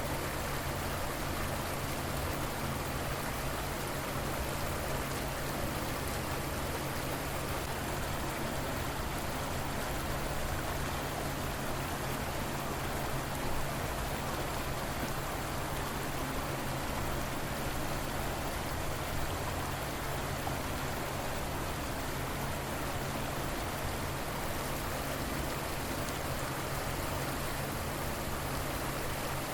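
River water flowing steadily, an even rushing and babbling that does not change.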